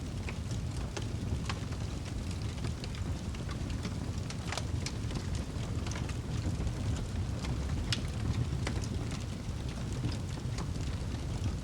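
Wood fire burning in a fireplace: a steady low rumble of flames with irregular crackles and pops, two sharper pops about halfway through and about two-thirds of the way in.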